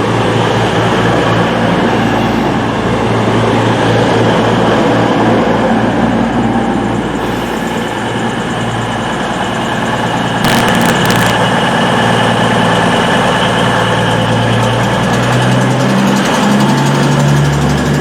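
Diesel train engine running steadily, with a few sharp clicks about ten and a half seconds in and a change in its low note near the end.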